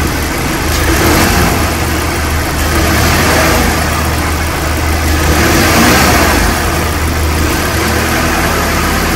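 Mazda 6 2.5-litre Skyactiv-G four-cylinder engine running and being given a little throttle, its revs rising and falling twice, to check that it runs smoothly on newly replaced ignition coils.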